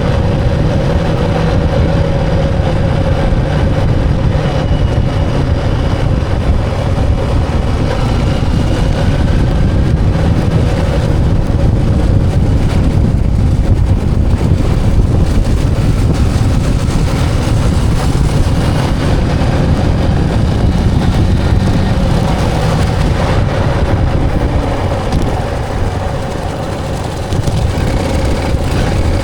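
Motorcycle engine running steadily while riding, easing off briefly near the end.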